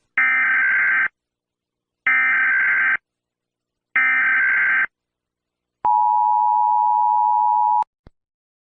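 Emergency Alert System warning tones: three identical screeching digital data bursts of just under a second each, then a steady two-tone attention signal held for about two seconds. This tone sequence heralds a broadcast severe thunderstorm warning.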